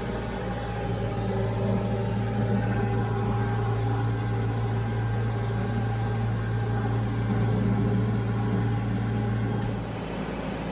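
Tractor engine running steadily with a constant low hum; just before the end there is a click and the hum fades.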